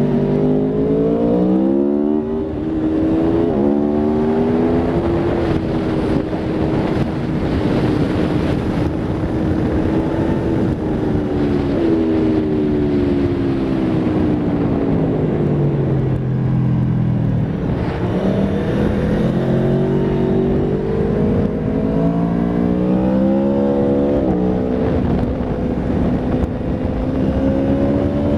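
Aprilia Tuono V4 RR's V4 engine pulling hard around a race track: its pitch climbs and drops back in quick steps as it upshifts through the gears, holds, then falls away under braking and climbs again, over a steady rush of noise.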